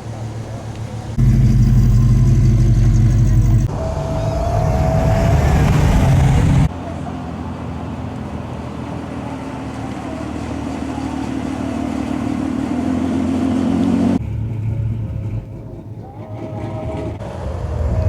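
Cars' engines driving past one after another, with abrupt changes between cars as the recording is cut. Through the middle one engine grows steadily louder as it approaches.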